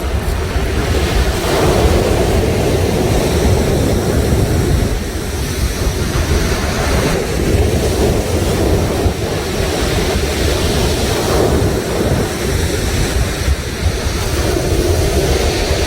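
Sea surf washing continuously against the shore, with wind buffeting the microphone and adding a low rumble.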